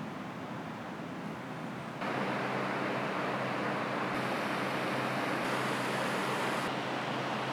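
Steady road and tyre noise from a moving car, with a low engine hum underneath; the rush gets louder about two seconds in.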